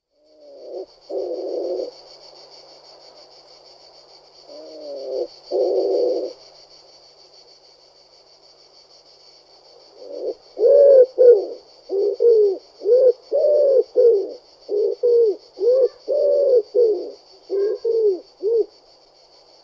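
A pigeon cooing: two drawn-out coos in the first few seconds, then a quick run of more than a dozen short coos from about ten seconds in. A faint steady high-pitched buzz runs underneath.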